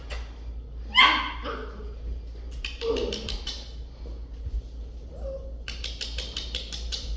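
A puppy gives one loud, high yipping bark about a second in, followed by a softer yip. Runs of quick, even clicks or taps come twice, in the middle and near the end.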